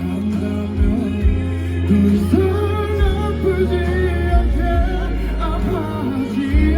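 Live pop ballad: a band playing with a steady bass, and a singing voice with wavering, held notes over it.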